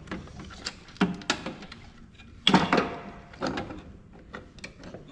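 Clunks, knocks and clicks of a thermal printer's plastic and metal parts being handled and pried apart, the loudest clunk about two and a half seconds in.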